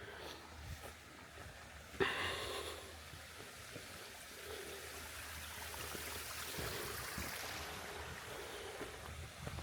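Small creek trickling and splashing over rocks in a steady rush of water, with a sudden sharp sound about two seconds in.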